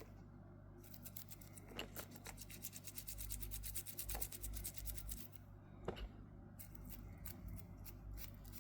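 Fast run of small clicks and scrapes from hand work on the parts of a Casio G-1800D watch being taken apart and cleaned, thinning to scattered clicks after about five seconds, over a faint steady hum.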